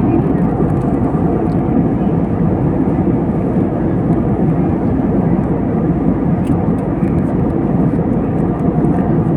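Steady, loud rumbling roar of an airliner in flight heard from inside the passenger cabin: engine and airflow noise.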